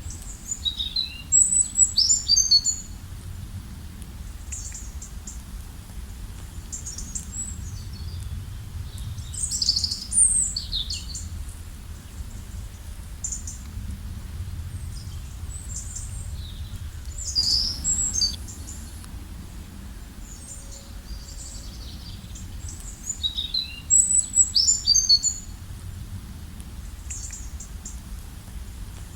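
Forest songbirds singing: short bursts of quick, high chirping phrases about every seven or eight seconds, over a steady low background rumble.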